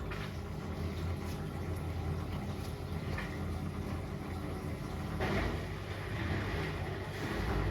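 Hotpoint WMFUG942 washing machine running just after its Autoclean drum-cleaning cycle has been started: a steady low mechanical hum that swells slightly partway through.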